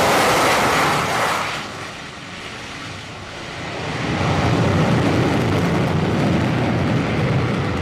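F-35B Lightning II jet engine noise: a loud rushing hiss cuts off about a second and a half in, then a low jet rumble builds from about three seconds on and holds.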